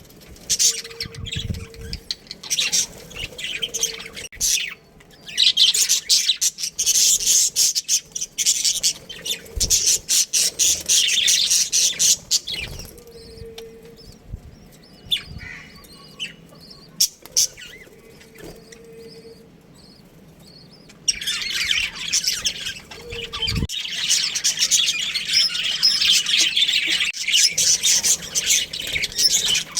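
Budgerigars chirping and chattering in dense high-pitched runs, dropping to a few scattered chirps for several seconds midway, then chattering without a break from about two-thirds of the way in.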